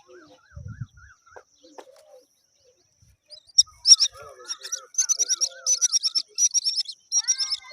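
Baby myna bird chirping. After a few faint wavering calls, a rapid run of loud, high chirps starts about three and a half seconds in, several a second, and carries on.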